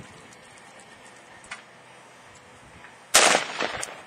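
A single rifle shot about three seconds in: a sharp crack that dies away over most of a second, preceded by a faint click.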